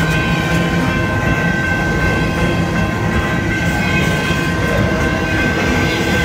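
Loaded double-stack intermodal well cars of a long freight train rolling past close by: a steady rumble of steel wheels on rail, with a steady high-pitched whine over it.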